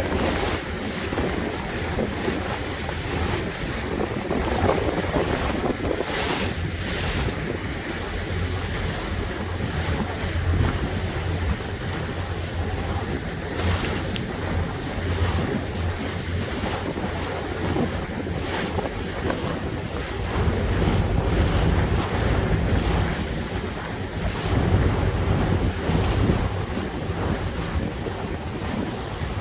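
A motorboat's engine running steadily under the rush of water along the hull, with wind buffeting the microphone and growing stronger for a few seconds past the middle.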